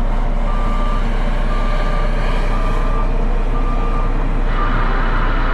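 A heavy vehicle's reversing alarm beeping about once a second, four beeps, over a diesel engine running; the beeping stops a little under four seconds in, and a louder rushing sound rises near the end.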